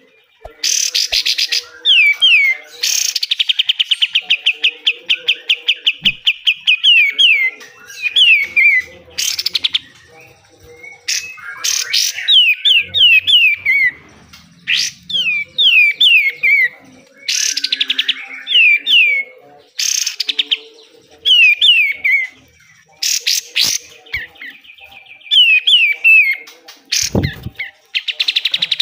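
Kapas tembak songbird singing hard in repeated phrases: long, very fast trills alternate with runs of three or four quick downward-slurred whistles and loud harsh bursts, the rough 'besetan' style of song. There is a single thump a little before the end.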